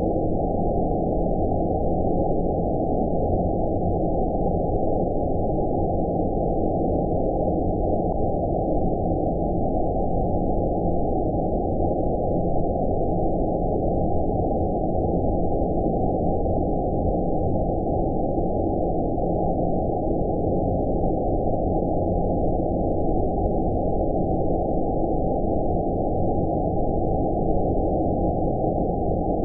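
Steady synthetic 'space' sleep noise: white noise filtered so that nothing above about 1 kHz remains, giving an even, muffled hiss with no change in level.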